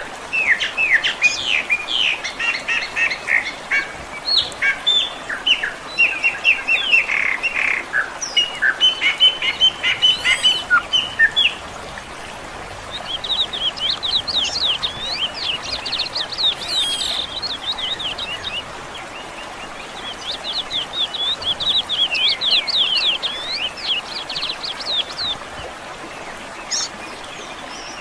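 Songbirds chirping and singing over a faint steady background hiss. Dense overlapping chirps fill the first ten seconds or so. After a short lull come two runs of quick, repeated sweeping notes.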